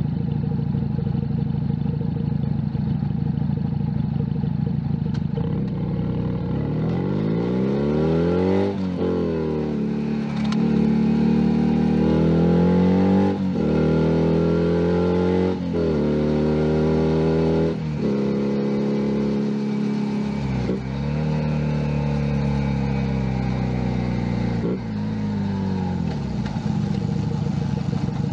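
A Junak M11 Cafe's 125cc single-cylinder engine idles steadily for about six seconds. It then revs up through several gears: the pitch climbs, then drops suddenly at each upshift, about four times. The bike holds speed briefly, and the engine note falls in steps back to idle near the end.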